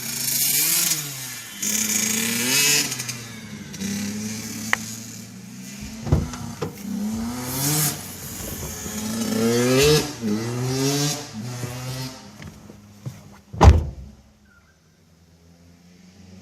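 Small two-stroke dirt bike engine revving hard, its pitch climbing and dropping again and again as it shifts through the gears. A sharp knock comes about six seconds in, and a louder bang about fourteen seconds in, after which it goes nearly quiet.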